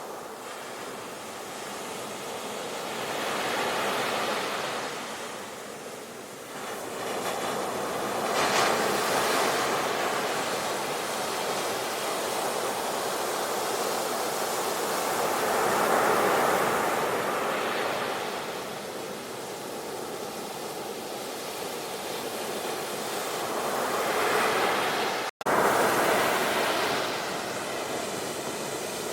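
Sea surf: waves breaking and washing in, the hiss of water swelling up and ebbing away every several seconds. The sound cuts out for an instant about three-quarters of the way through.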